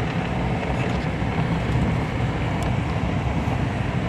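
Truck driving through deep snow: a steady low noise of engine and tyres, with a few faint ticks.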